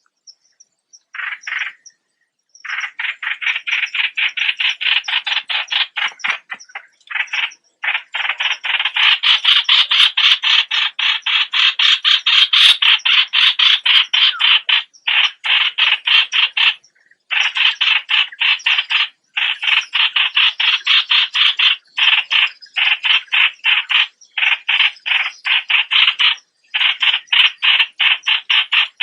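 Bulbul calling in a fast chatter of short repeated notes, about ten a second, in long runs broken by brief pauses.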